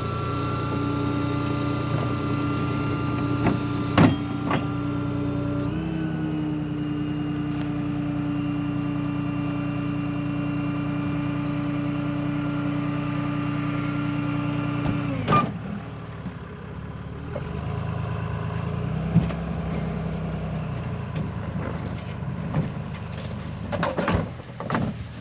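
Tow truck's engine running with a steady, even drone that drops to a quieter, lower running about fifteen seconds in. There are a few sharp knocks, one near the start, one at the drop and a cluster near the end.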